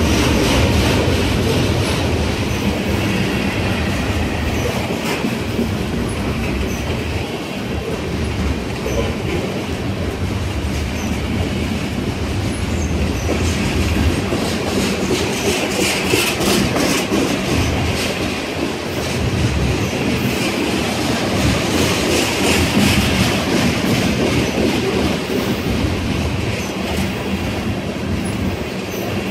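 Freight train of covered hopper cars rolling past close by: a steady rumble of steel wheels on rail, with clacking as the wheels run over rail joints.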